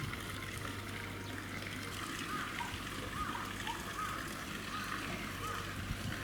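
Water trickling and splashing steadily in a hippopotamus pool, with a series of short high chirps through the middle.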